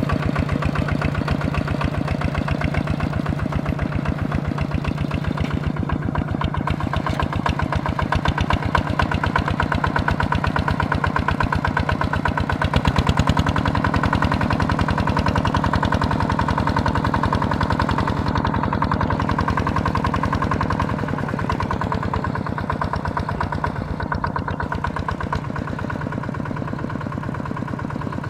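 Small tractor engine running steadily with an even, rapid beat, its note changing about 13 seconds in and settling back after about 21 seconds.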